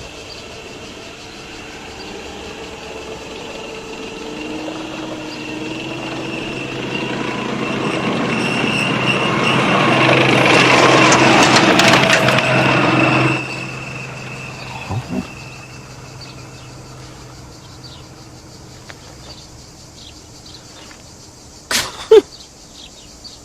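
A motor vehicle growing steadily louder as it draws near, with a steady low hum and a high whine, until it cuts off abruptly about 13 seconds in. A sharp knock follows near the end.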